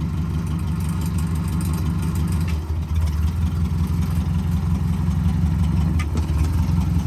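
Tractor engine running steadily at low speed, growing a little louder after a brief dip about three seconds in.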